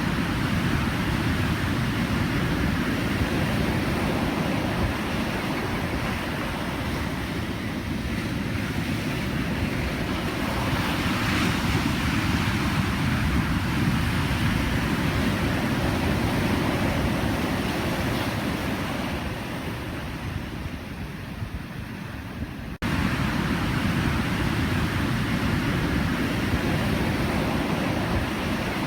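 Pacific Ocean surf: a continuous wash of waves, heavy in the low rumble, with a wave breaking and hissing brighter a little before the middle. About two-thirds through, the sound cuts abruptly and jumps back to full level.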